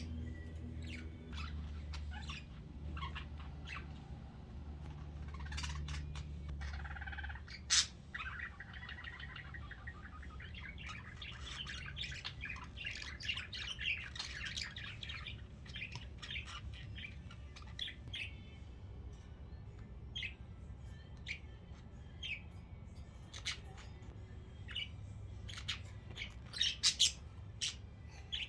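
Pet budgerigars chirping and chattering, with scattered sharp chirps and a long stretch of continuous warbling in the middle; the loudest chirps come near the end. A low steady rumble sits under the first several seconds.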